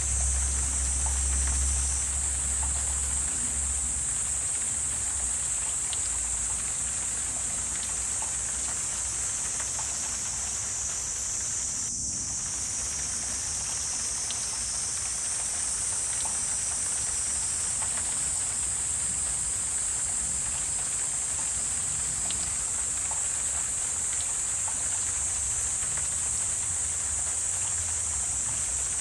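Wetland night ambience dominated by a steady high-pitched insect chorus, over a soft even hiss with a low rumble in the first few seconds.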